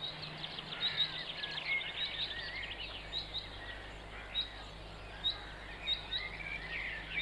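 Birds chirping and calling: many short, quick high chirps throughout, over a faint steady low hum.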